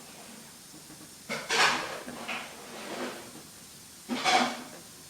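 Pet parrot making a few short, harsh vocal sounds. The loudest come about a second and a half in and again about four seconds in.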